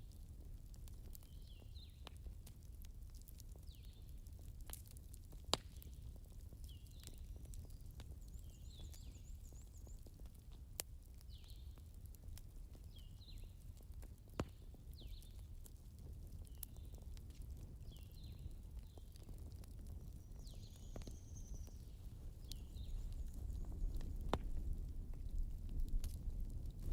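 Campfire crackling, with a low rumble of the burning fire and now and then a single sharp pop from the wood, the two loudest about a third and halfway through. A small bird chirps short falling notes about once a second over it, and the low rumble grows louder near the end.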